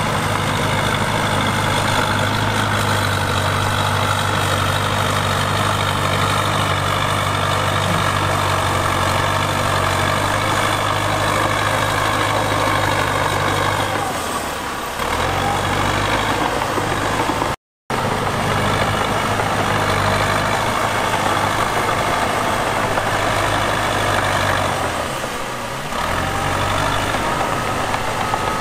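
Heavy diesel earthmoving machine engine running steadily, its note dipping briefly about halfway through and again near the end before picking back up. A momentary break in the sound falls just after the first dip.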